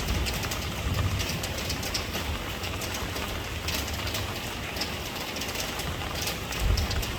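Steady rain falling, with scattered sharp drop ticks over an even hiss and a low rumble that swells about a second in and again near the end.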